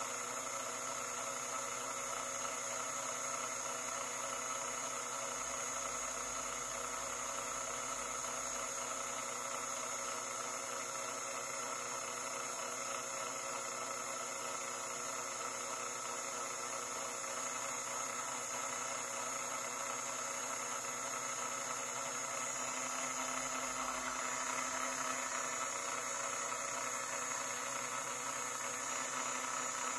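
Washing machine running with a steady mechanical hum made of several steady tones over a hiss. A low tone swells briefly about three-quarters of the way through.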